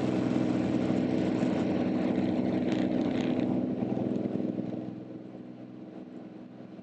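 Cirrus SR22T's turbocharged six-cylinder engine and propeller at full takeoff power, a steady drone heard in the cockpit, getting quieter about five seconds in.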